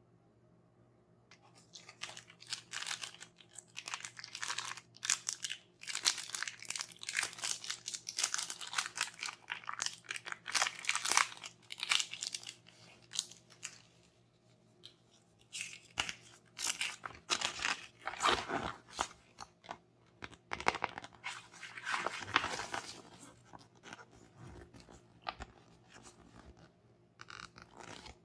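Close-up crunching and crackling from hands working through toy unboxing materials, in irregular bursts with a couple of short pauses.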